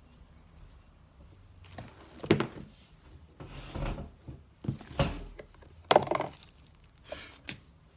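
Handling noises of paper and objects on a work table: a string of knocks and rustles beginning about two seconds in.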